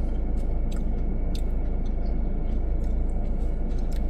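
Steady low rumble of a vehicle driving, heard from inside the cabin, with a few faint ticks.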